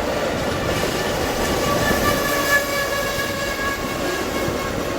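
Amtrak Auto Train cars rolling past with a steady, continuous rumble. For about three seconds in the middle, a thin high squealing tone from the wheels rides over it.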